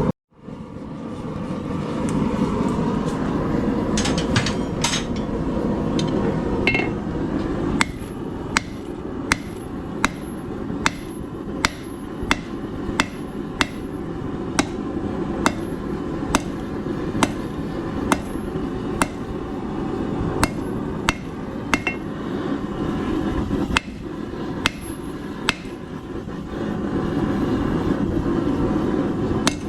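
Blacksmith's hammer striking hot steel on an anvil, a few blows and then a steady run of evenly spaced strikes, about one every half second or so, each with a short metallic ring. A steady low rushing noise runs under the blows.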